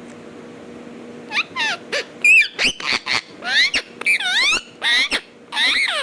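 Alexandrine parrot vocalizing in a quick run of short, loud calls that glide up and down in pitch, starting about a second in, over a steady low hum.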